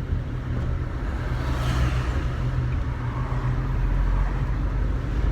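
Car cabin noise from a moving taxi: steady low engine and road rumble with tyre noise, and a brief rise in hiss about two seconds in.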